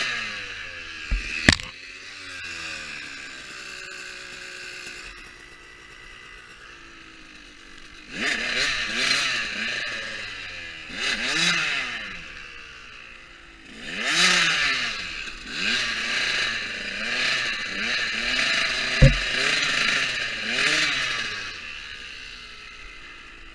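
Motocross dirt bike engine revving up and down in repeated bursts as it is ridden, with a sharp knock about a second and a half in and another, the loudest moment, near the end.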